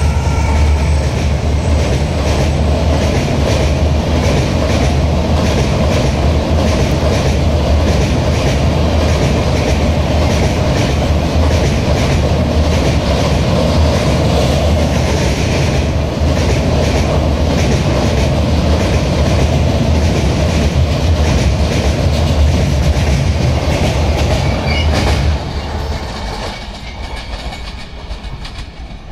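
The coaches of the Rajdhani Express rolling over a steel girder bridge: a loud, steady rumble with wheels clicking over and over at the rail joints. About 25 seconds in, the sound drops away as the end of the train passes and it moves off.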